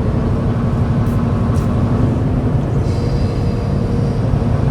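Truck driving along the road at a steady speed: a continuous low engine drone mixed with road noise.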